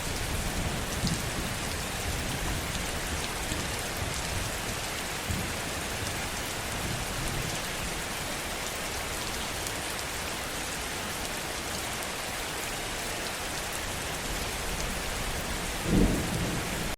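Steady heavy rainfall, an even hiss of drops, with the tail of a low thunder rumble in the first couple of seconds. A single short, low thud stands out about a second before the end.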